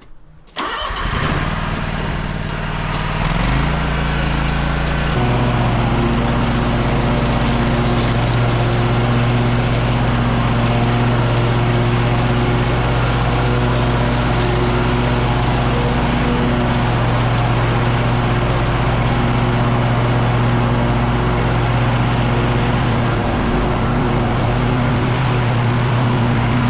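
Echo PB-9010T backpack leaf blower's two-stroke engine coming on suddenly, stepping up in speed twice within the first few seconds, then running steadily at high throttle with a broad rush of air.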